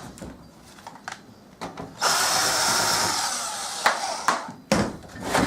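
A power drill running in one steady burst of about two and a half seconds, starting about two seconds in after a few light clicks, then winding down.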